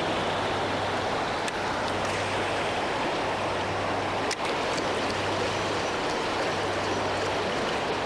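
River water rushing steadily, with one sharp click about four seconds in.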